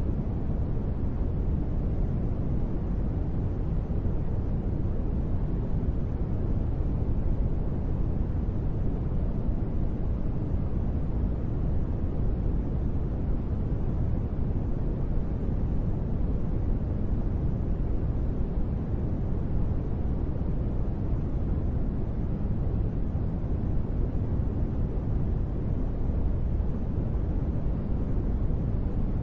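Steady, unbroken rushing noise, deep and rumbly with little hiss up top. It is a sleep-noise track billed as gentle rain white noise, with no separate drops or thunder standing out.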